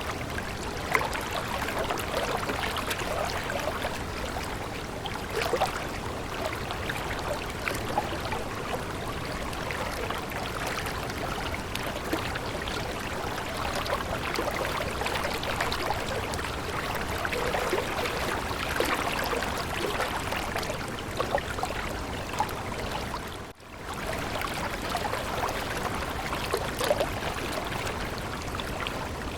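Stream water running and babbling steadily, with a brief drop-out late on.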